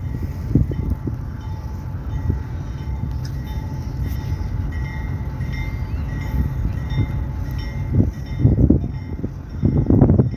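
Freight train wagons rolling past with a steady low rumble. Groups of wheel clacks come about eight seconds in and again near the end.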